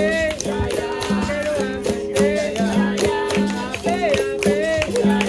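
Capoeira roda music: berimbaus playing a repeating two-note rhythm, with caxixi rattles and hand percussion, under singing voices.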